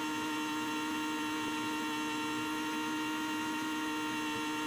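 Steady machine whine at a constant pitch, made of several even tones, from the Case 2670 tractor running at steady speed while pulling tillage.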